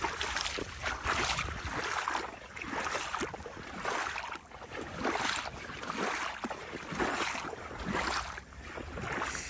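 Steps sloshing through shallow water and mud, about one step a second.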